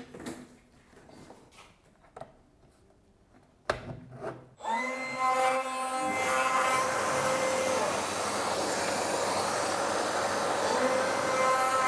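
A few light handling clicks and one sharp click, then about four and a half seconds in a palm router switches on and runs steadily with a high whine for the rest of the time, its bit cutting into the wooden insert blank.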